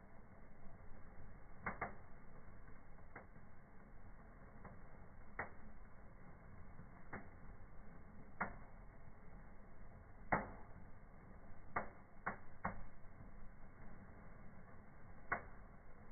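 Fire burning in a fireplace, crackling with about ten sharp pops at uneven intervals, the loudest about ten seconds in, over a faint steady low background.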